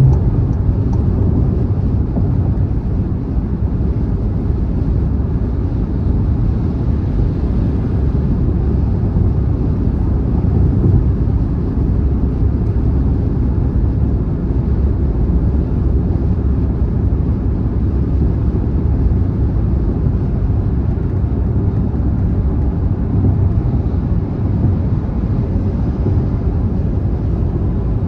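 Car driving at speed on a highway: a steady, unchanging low rumble of road and tyre noise.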